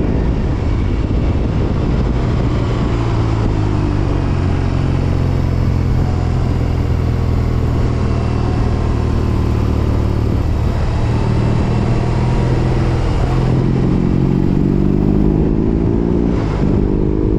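BMW R18 Roctane's big boxer twin running through a Freedom Performance 4.5-inch aftermarket exhaust while riding: the engine note drops in the first couple of seconds, holds steady at cruise, then rises as the bike accelerates in the last few seconds.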